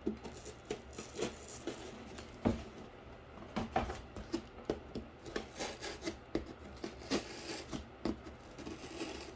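Irregular scraping and rubbing on cardboard with scattered small knocks and ticks, as the cardboard is worked by hand.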